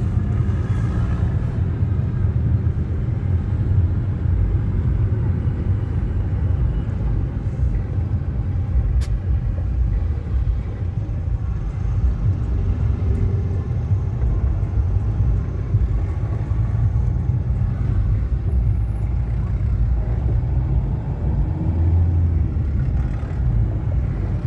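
Steady low rumble of vehicles moving along a highway.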